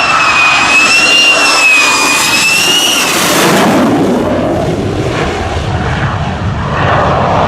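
F-22 Raptor and F-35A Lightning fighter jets flying past: a high, wavering turbine whine gives way about three seconds in to a broad jet roar that drops in pitch as they pass, settling into a low rumble.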